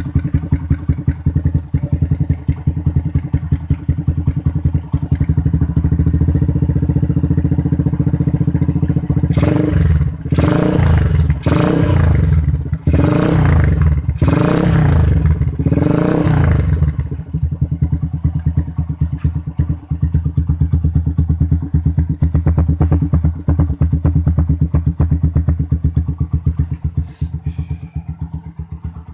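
Motorcycle exhaust through a round, full-stainless aftermarket silencer packed with white glass wool, idling with a steady throb. About a third of the way in, the throttle is blipped about five times in quick succession, then it settles back to idle.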